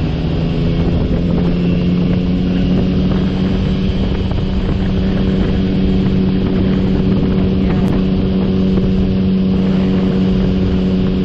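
Sport motorcycle engine running at a steady cruise, held at one engine speed with no revving, with wind noise on the microphone.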